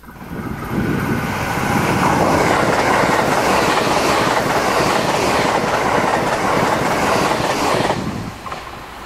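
JR West Thunderbird limited express electric train passing close by: the rail noise builds over the first two seconds, holds as a steady loud rush with wheels clicking over the rail joints, then falls away about eight seconds in.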